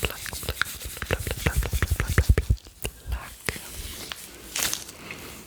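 Close-miked ASMR mouth sounds, wet 'plug' pops and 'flic' tongue clicks, combined with rubber gloves being handled. A quick dense run of clicks and pops, some with deep thumps, fills the first two and a half seconds, then sparser clicks and a short rustle.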